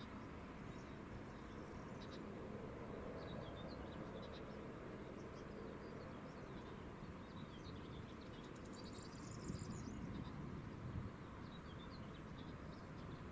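Small birds chirping faintly now and then, with a busier run of higher chirps about nine seconds in, over a low, steady background rumble.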